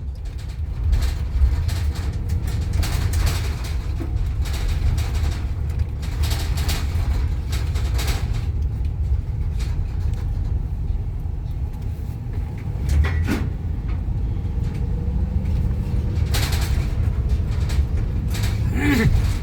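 Road and engine noise inside a moving car's cabin: a steady low rumble, with loose things in the back rattling and knocking now and then.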